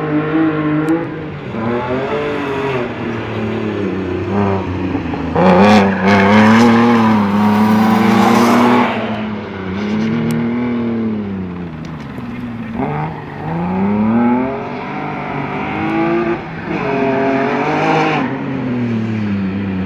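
Rally car engine revving hard and backing off again and again, its pitch climbing and falling every couple of seconds as it is driven through a cone course. It is loudest and held high from about six to nine seconds in.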